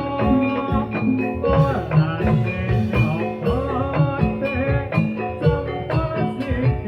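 Javanese gamelan music for a jathilan dance, amplified through a sound system: ringing metallophone notes over steady drum strokes.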